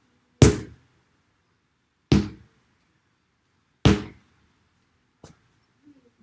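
Sledgehammer striking a tyre three times, heavy thuds evenly spaced under two seconds apart, then a faint click near the end.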